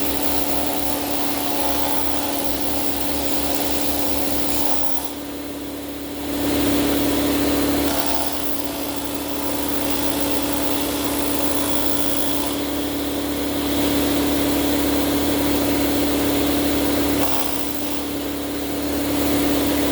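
Pneumatic needle scaler and compressed-air blow gun working on an LS V8 engine block, knocking off and blowing away grime: a steady air-tool buzz with loud hiss. The sound eases briefly about five seconds in and again near the end.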